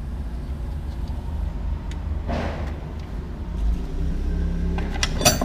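Car running with a steady low rumble. A brief hiss comes about two seconds in, and sharp clicks near the end.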